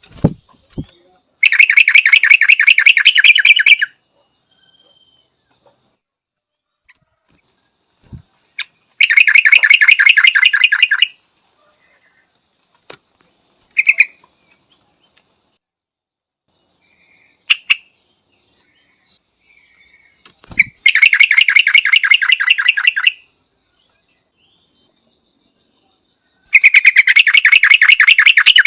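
Yellow-vented bulbul calling: four loud bursts of rapidly repeated notes, each about two seconds long and spaced several seconds apart, with a few short single notes in between.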